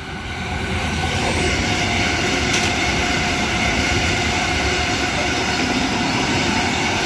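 Eight-car Sydney Trains H-set (OSCAR) electric multiple unit running through the station at speed without stopping. A rush of wheels on rails with steady tones over it, building over the first second and then holding loud and steady.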